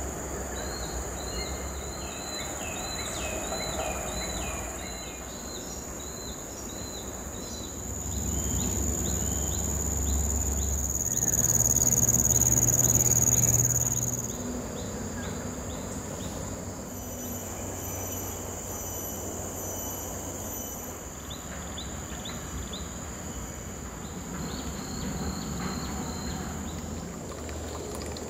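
Tropical forest insects singing: a steady high-pitched drone that swells for several seconds midway, with runs of short repeated chirps in the first few seconds and again near the end. Under it, a low rumble grows louder in the middle.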